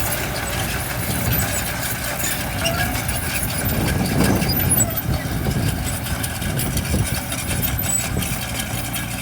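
Diesel engine of heavy earthmoving equipment running steadily, swelling briefly about four seconds in.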